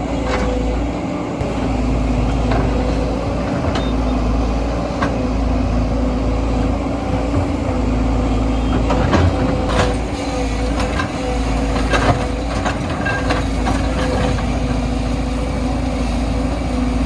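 Heavy diesel engine of an earthmoving machine running steadily, with a scattering of short sharp clanks.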